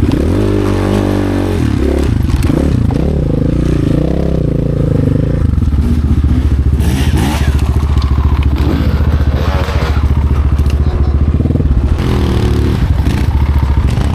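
Off-road motorcycle engine revving up and down over the first few seconds, then running at a steady low rumble, with some clatter and scraping.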